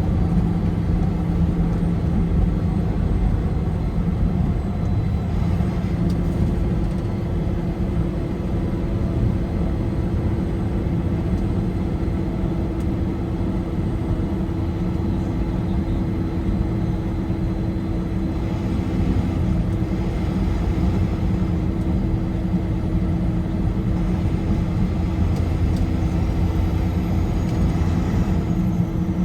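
Car driving at highway speed: a steady rumble of tyres and engine with an even hum.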